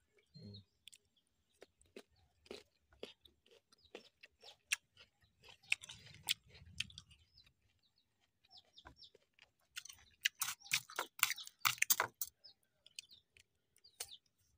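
A person chewing crunchy slices of unripe green mango: many short crunches and mouth clicks, heaviest and loudest around ten to twelve seconds in.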